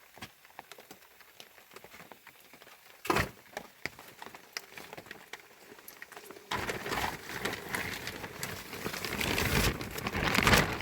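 A single sharp knock about three seconds in, then a dense crackling rustle from about six seconds on.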